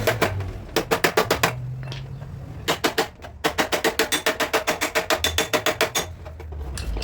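Body hammer tapping rapidly on a car's sheet-metal front fender: runs of quick strikes, about eight a second, with short pauses between runs.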